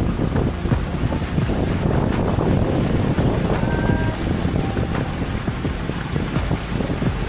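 Boat engine running steadily, with wind buffeting the microphone and water noise.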